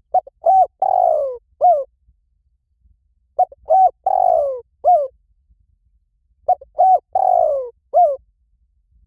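Spotted dove cooing in three matching phrases about three seconds apart, each a couple of short coos, a longer falling coo and one closing coo. It is a decoy call for luring spotted doves.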